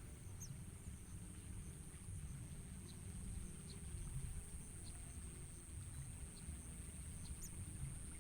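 Faint outdoor ambience: a steady high-pitched insect drone with scattered short, faint bird chirps, the clearest near the end, over a low rumble.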